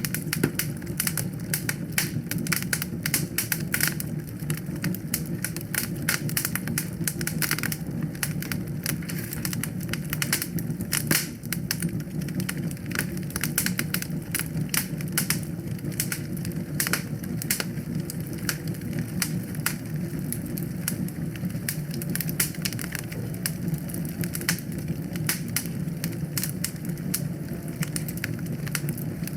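Wood fire burning in a fireplace, crackling with dense, irregular pops and snaps over a steady low rumble.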